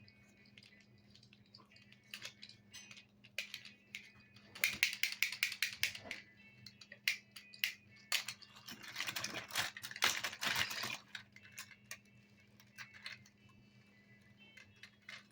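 Toy construction vehicles being handled and jostled together in a box: bursts of clicking and rattling, busiest about five seconds in and again around ten seconds in.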